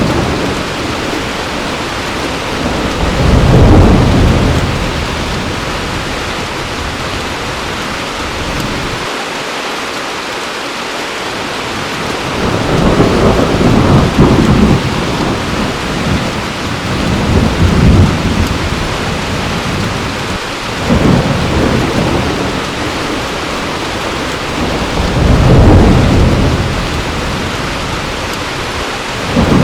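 Heavy rain falling steadily, with rolls of thunder rumbling low and fading about five times. The loudest rolls come a few seconds in and near the end.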